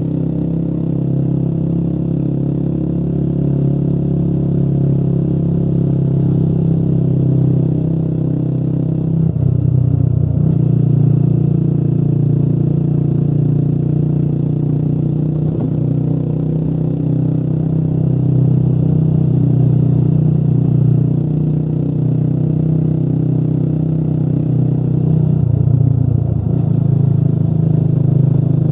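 Motorcycle engine running steadily under way, heard from the bike itself. The engine note breaks off briefly twice, about ten seconds in and a few seconds before the end.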